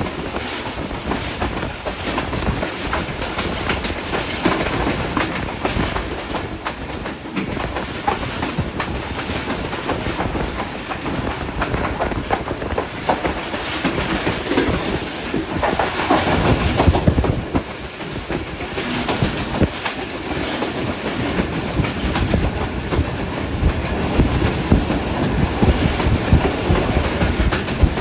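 Moving passenger train running on the rails, its wheels clattering over rail joints over a steady rumble. It gets briefly louder a little past halfway.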